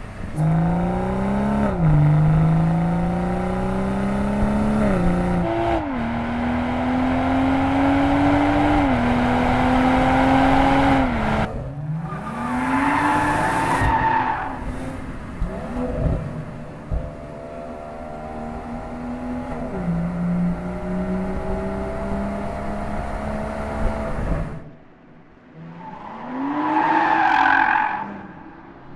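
BMW M240i's turbocharged 3.0-litre straight-six being revved hard, its note climbing and dropping back again and again as the coupe is driven sideways. Tyres squeal loudly twice, about halfway through and near the end.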